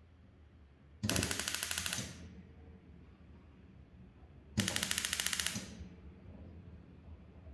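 Gas stove's electric spark igniter clicking rapidly in two bursts of about a second each, the second about three and a half seconds after the first, as the burner is being lit.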